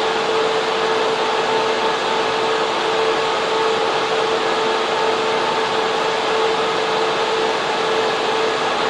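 Server room cooling fans and air conditioning running: a loud, steady rush of air with a constant mid-pitched fan whine over it.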